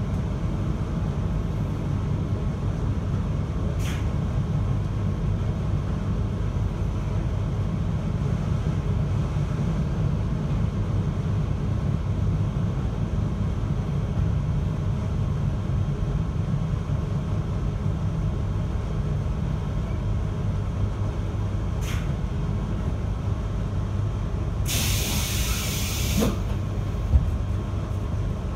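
JR Hokkaido 721 series electric train heard from inside the carriage, running with a steady low rumble of ride noise. There are two faint clicks, and a short burst of air hiss comes about 25 seconds in.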